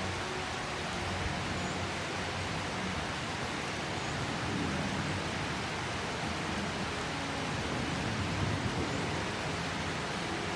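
Heavy rain falling, a steady even hiss without breaks.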